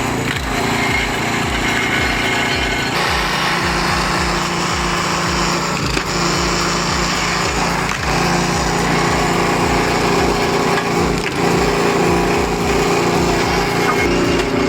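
Small gasoline engine of an 8-horsepower mechanical log splitter running steadily, its even tone dipping briefly every few seconds as the machine works through wood.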